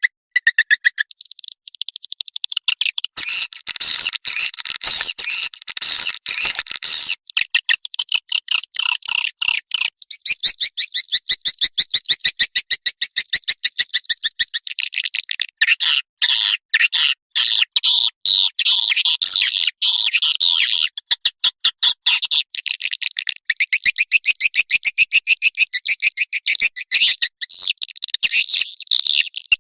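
Swiftlet lure call: a loud, rapid chattering twitter of swiftlets, a fast stream of clicks and trills in long phrases with a few brief breaks. It is the kind of call played to draw swiftlets into a nesting house.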